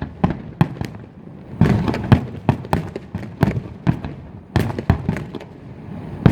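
Fireworks show: a rapid, irregular run of bursting shells, sharp bangs and booms several times a second, some with a short rumbling echo after them.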